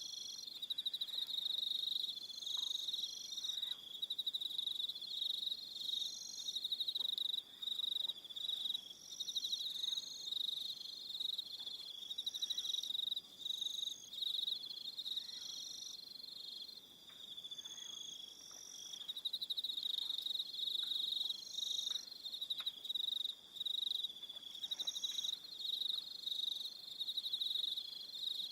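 A chorus of crickets trilling at dusk. Several insects sing over one another in a high, continuous chirring, with higher calls cutting in and out every second or two.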